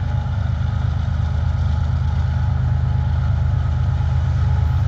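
Diesel locomotive engines of an approaching freight train running steadily, a deep low rumble that grows slowly louder as the train nears.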